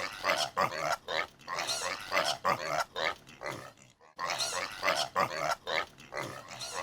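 A rapid series of short animal calls, about three a second, with a brief break about four seconds in.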